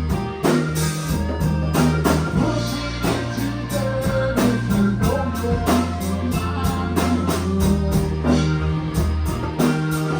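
A rock band playing an instrumental passage: guitar lines over sustained bass notes and a drum kit keeping a steady beat.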